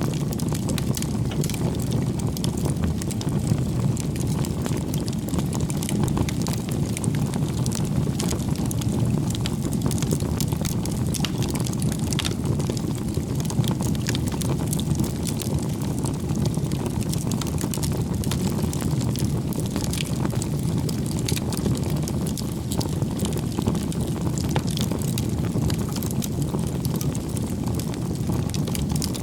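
Bonfire burning: a steady low rush of flames with frequent sharp crackles and pops scattered throughout.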